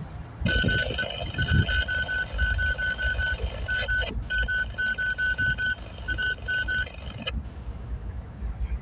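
A railroad warning bell ringing rapidly, about four strikes a second, over the low rumble of a passing freight train; the bell stops abruptly about seven seconds in.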